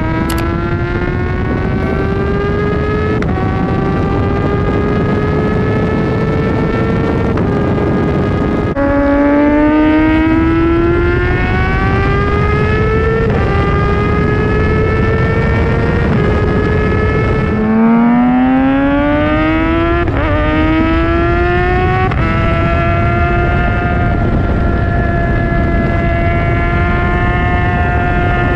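2020 Kawasaki Ninja ZX-6R's inline-four engine accelerating through the gears, its pitch climbing steadily in each gear and dropping back at each of several upshifts, over a steady rush of wind and road noise.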